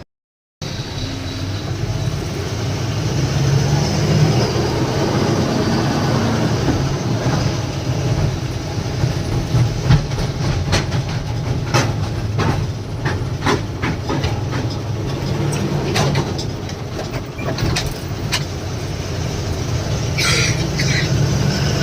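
Loaded lorry on the move: the engine runs steadily under a low rumble, with frequent rattles and knocks from the truck over an uneven road. The sound starts abruptly after a half-second dropout at the beginning.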